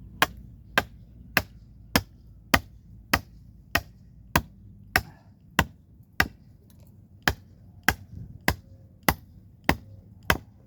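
Steady hammer blows, about one and a half to two strikes a second, with one brief pause a little past the middle.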